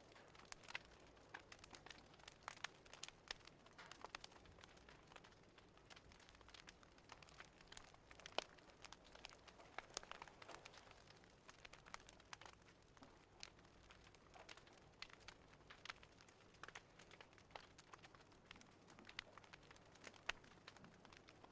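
Wood fire crackling softly: irregular small pops and snaps over a faint hiss, with one sharper pop about eight seconds in.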